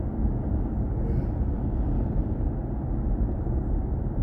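Steady low road and tyre rumble of a BMW i4 M50 electric car driving, heard from inside the cabin, with no engine note.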